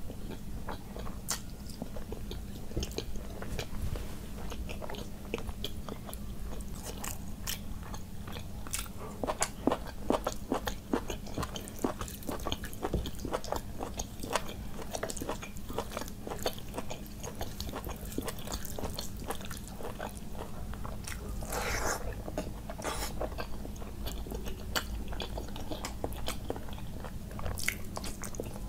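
Close-miked chewing and wet mouth sounds of a person eating rice and curry by hand: many short smacks and clicks, with a longer, noisier sound about 22 seconds in.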